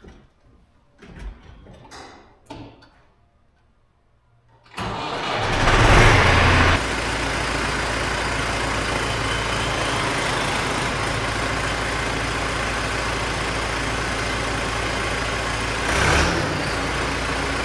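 Massey Ferguson 6150 tractor's diesel engine starting about five seconds in on its first start after an oil and fuel filter change. It is loudest for the first couple of seconds, then settles into a steady idle.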